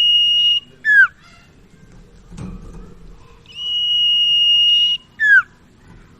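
Burung sirtu (cipau) calling: long, level, high whistles, each followed by a short note that drops sharply in pitch, in a pattern that repeats about every four seconds. A soft thump comes between the phrases.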